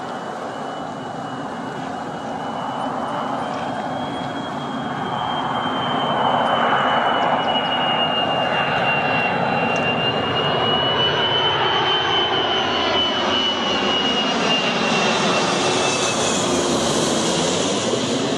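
Twin-engine widebody jet airliner on landing approach, flying low overhead with its gear down: a steady high engine whine over the jet rush, swelling as it nears and loudest as it passes directly overhead near the end.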